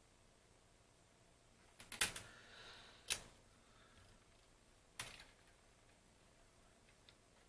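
A few sharp clicks and taps from handling small hard parts: a quick cluster about two seconds in, a single click about a second later, and another about five seconds in.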